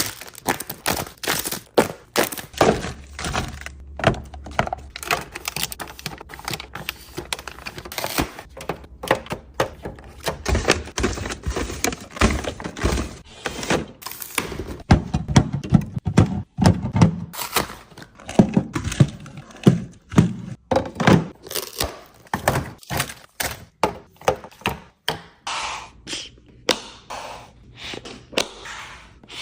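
Irregular knocks, taps and clatters of food containers and packages being handled and set down on shelves, several a second.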